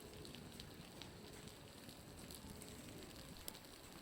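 Water dripping and splattering from a building's roof, a faint stream of small irregular ticks and pops that sounds like a crackling fire, with one sharper click about three and a half seconds in.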